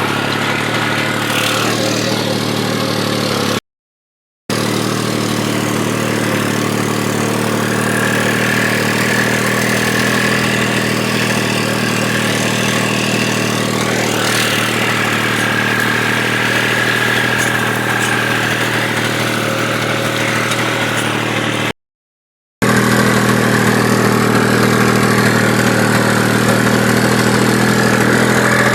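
New Holland 3630 tractor's diesel engine running steadily under load, pulling a harrow, with a steady high whine over the engine note. The sound drops out to silence twice, briefly, and is a little louder after the second break.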